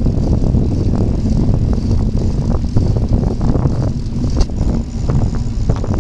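Riding noise of a bicycle heard from an on-board camera: a steady low rumble of wind and tyres on the microphone, with scattered small knocks and rattles from bumps in the path.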